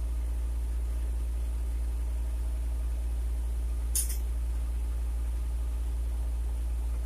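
Electric fan running with a steady low hum, with one brief high click about four seconds in.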